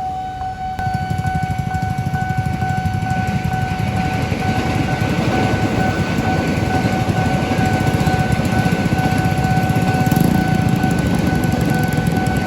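Level-crossing warning signal sounding a continuous steady tone while a train passes over the crossing, a loud rumble that builds about a second in and holds.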